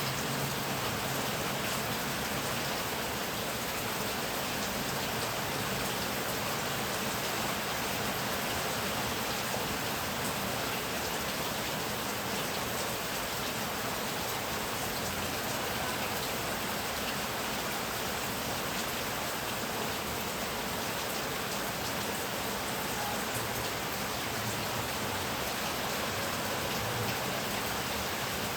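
Heavy rain falling steadily, an even hiss of dense drops with no thunder.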